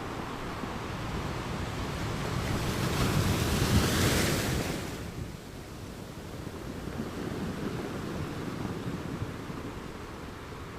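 Ocean waves breaking on the shore: one wave swells to a loud crash about four seconds in and washes away, followed by a softer surge of surf.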